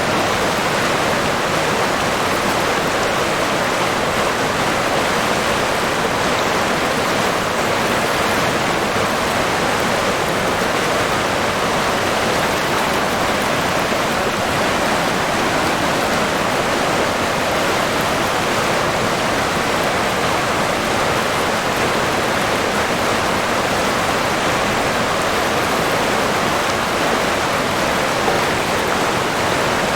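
River water rushing steadily, an even, continuous flow.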